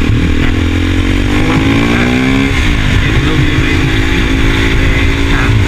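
KTM Duke 390's single-cylinder engine, breathing through an aftermarket Barrel slip-on exhaust, pulling under acceleration with the pitch rising. About two and a half seconds in the pitch drops sharply and recovers, a gear change, then the engine pulls on again.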